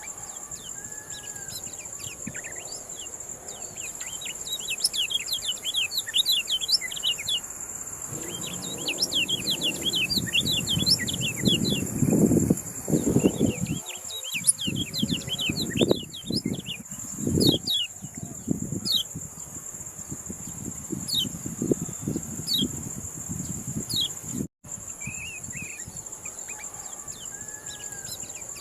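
Kecial kuning songbird singing a long run of quick, high, falling chirps over a steady high-pitched whine. Low rumbling bursts come in around the middle.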